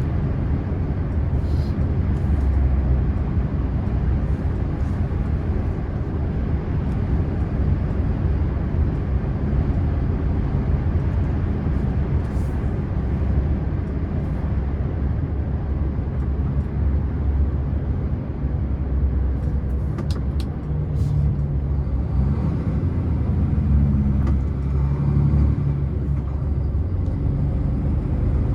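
Scania truck on the move downhill: a steady low drone of engine and road noise. The engine note grows stronger for a few seconds near the end.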